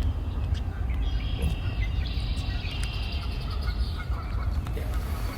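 Wild birds calling in repeated high, rapid trills, loudest about two to three seconds in, over a steady low rumble of wind buffeting the microphone.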